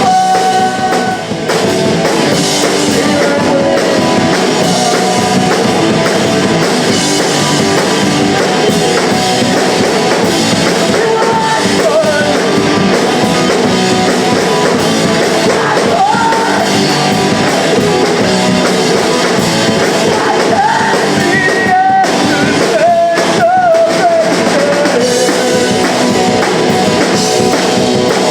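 Punk rock band playing live: distorted electric guitars, bass and a driving drum kit, with sung vocals over the top.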